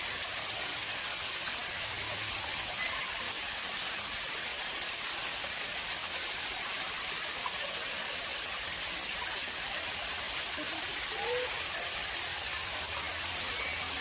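Water flowing steadily into an artificial pond, a constant even splashing rush.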